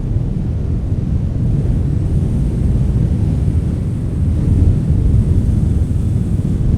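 Wind blowing steadily as a deep rumble, swelling slightly about halfway through.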